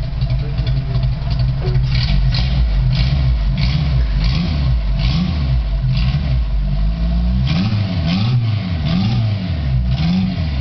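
Buggy's engine running on its first start, revved up and down again and again, with the pitch rising and falling several times in the second half.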